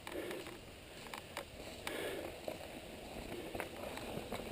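Mountain bike rolling over a dirt trail: low tyre and trail noise with scattered clicks and rattles.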